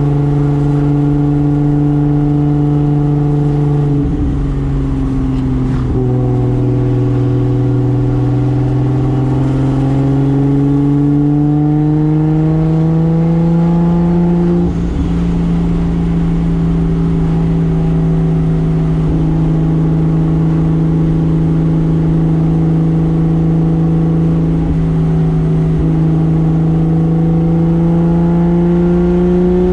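Turbocharged 2JZ straight-six of a 1995 Toyota Soarer running under load, its pitch climbing slowly as the car gathers speed. The pitch breaks or steps several times, most clearly about halfway through, where the sound also dips for a moment.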